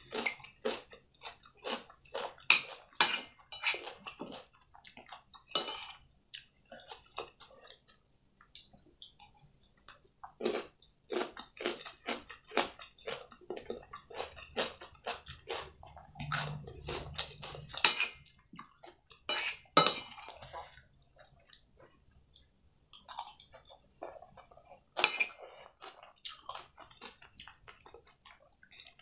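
Close-miked chewing and crunching of fried noodles and raw cucumber, with wet mouth clicks. Now and then a spoon clinks and scrapes against the ceramic plate.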